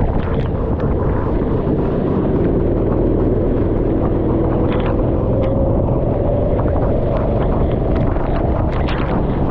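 Go-kart engine running hard with a loud rumble. Its note drops over the first few seconds, then climbs again as the kart accelerates.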